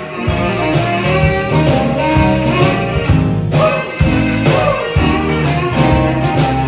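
Live soul band playing a Motown-style number, with horns carrying the tune over bass and a steady drum beat.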